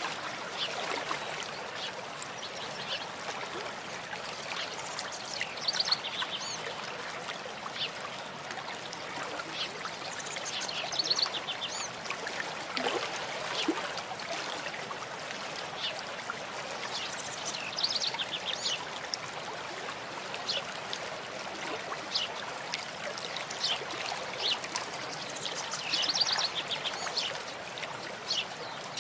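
A stream running steadily, with small birds chirping over it now and then in short calls and quick trills.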